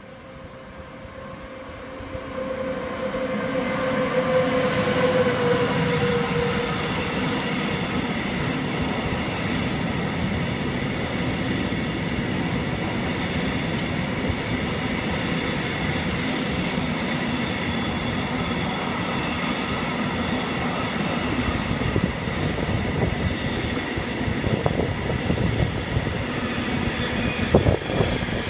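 A train approaches and then runs past without a break for over twenty seconds: a steady rumble and rattle of wheels on rail with a ringing hum. A whine falls slightly in pitch as the front of the train comes by, about four to six seconds in.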